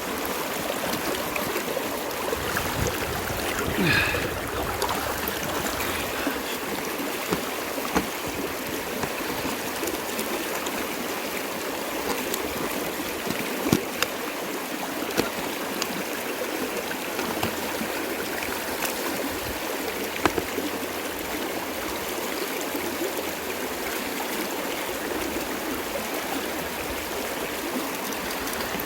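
River water flowing steadily, with a few sharp knocks and a brief high squeak about four seconds in.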